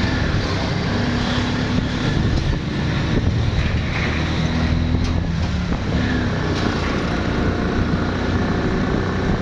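A motor vehicle running steadily: a constant engine hum with road noise.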